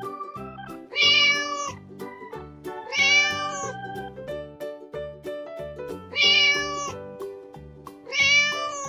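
Domestic cat meowing four times, each meow rising and then falling in pitch, over light background music.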